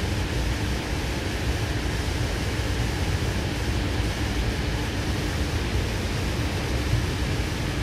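Steady running noise heard inside a carriage of a K-set double-deck electric train on the move: a low rumble of wheels on rail under an even hiss, with a faint steady hum.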